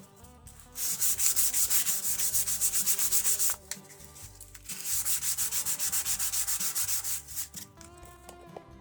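Sandpaper rubbed in quick back-and-forth strokes on a steel knife blade, in two runs of about three seconds each with a short pause between.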